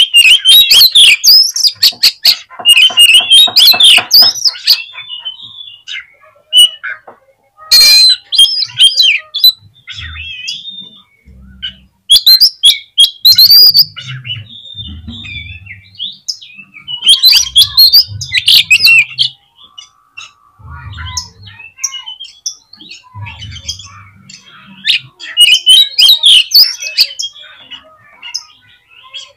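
Oriental magpie-robin (kacer) singing in loud bursts of fast, varied whistles and chirps with some harsh notes, broken by short pauses. Faint low thuds come between phrases in the middle.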